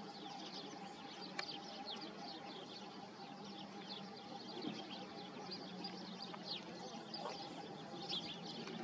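Small birds chirping continuously: many quick, high, short falling notes overlapping one another, over a faint steady hum.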